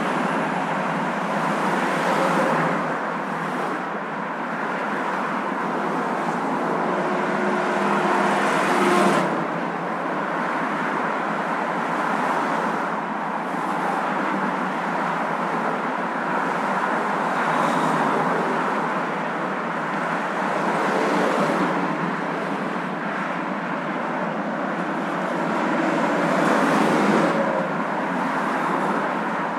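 Steady road and engine noise of a moving car, an even rushing hiss that swells louder a few times, around 2, 9 and 27 seconds in.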